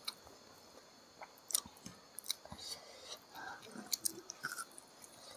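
Close-up eating sounds: scattered wet smacks and sharp clicks of chewing a mouthful of rice and chicken gizzard, and of fingers picking food off a banana-leaf plate.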